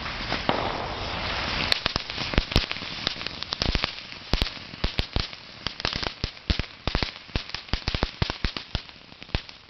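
A bag of fireworks burning on the ground: a hissing spray of sparks at first, then a long run of sharp, irregular crackling pops that thin out near the end.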